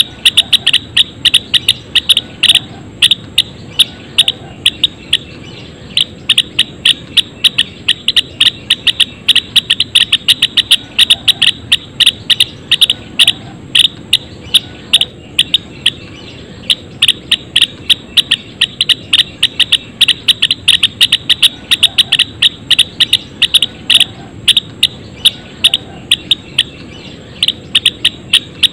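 A flock of Java sparrows chirping together, a dense stream of short, sharp, high chirps, several a second, that keeps up without a break.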